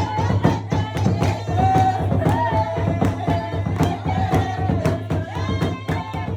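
Dance music of fast, steady drumming with a voice singing a melody over it.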